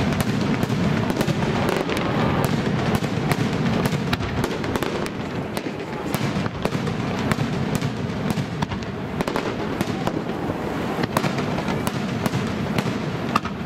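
Aerial firework shells bursting in quick succession, a steady run of sharp bangs and crackles.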